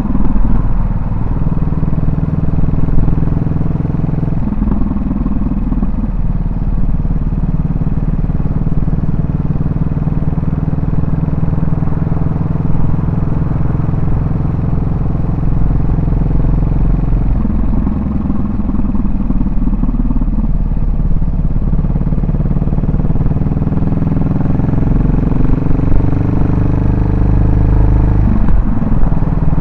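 Yamaha SR400's air-cooled single-cylinder four-stroke engine and exhaust under way, a steady loud thump whose pitch shifts a few times as the revs change.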